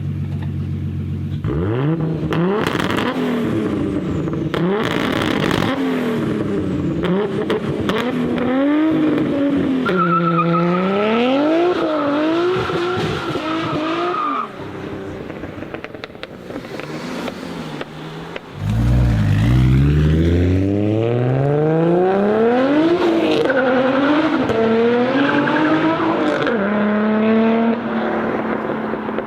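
A modified Nissan Skyline R33's turbocharged RB25DET straight-six is revved hard again and again, with sharp cracks among the revs. About ten seconds in, a steady high tyre squeal runs for some four seconds under the revving. After a quieter few seconds the engine pulls hard from low revs and climbs in pitch through several gear changes.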